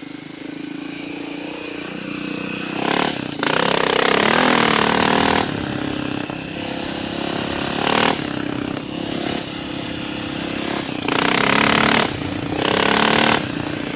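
Dirt bike engine running while being ridden, rising in loud surges as the throttle opens about three to five seconds in and twice near the end.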